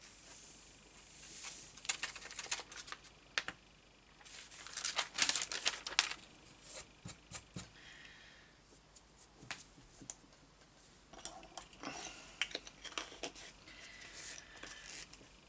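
Paper and craft materials being handled: irregular rustling and crinkling with many light taps and clicks.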